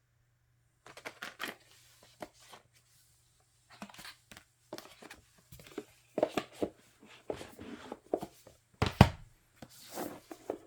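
Paper and plastic of a CD album package being handled and unpacked by hand: an irregular run of short rustles, crinkles and taps, the loudest about nine seconds in.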